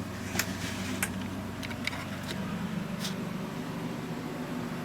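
Boat salon air conditioner running with a steady low hum, and a handful of light clicks over the first three seconds.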